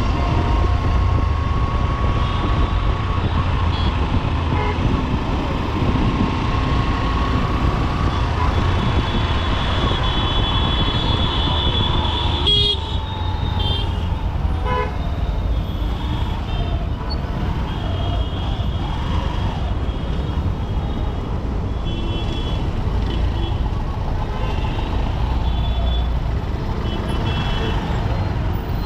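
Traffic on a busy city road heard from a moving motorcycle: the Honda SP125's single-cylinder engine runs under a heavy low rumble of wind and road noise. Vehicle horns toot and honk again and again from about a third of the way in, and there is one sharp knock near the middle.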